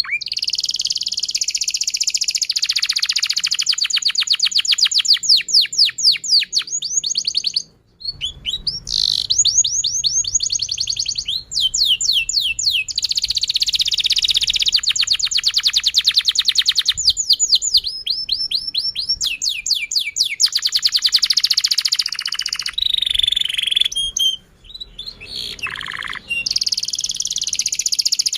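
Domestic canary singing a long, continuous song of rapid trills and quick rising and falling whistled sweeps, pausing briefly about eight seconds in and again near the end.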